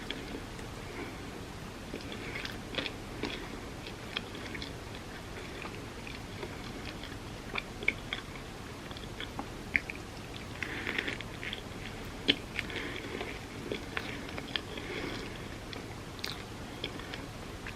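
Close-up chewing and biting of loaded avocado toast on sourdough: soft wet mouth sounds with irregular crisp clicks and crunches, busiest a little after the middle.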